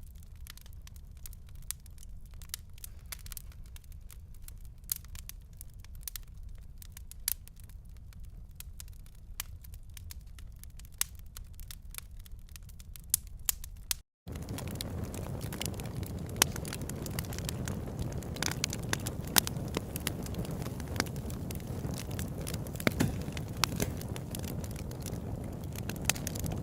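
Fire crackling: irregular sharp pops and snaps over a low rumble. The sound cuts out for an instant about halfway through and comes back louder.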